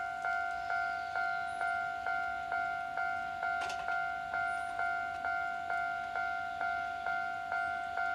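Japanese railway level-crossing warning bell ringing steadily, about two strikes a second, each strike a two-tone ding that rings on until the next.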